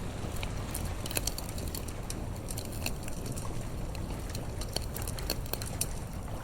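Campfire crackling with irregular sharp snaps over a low, steady rumble of sea surf.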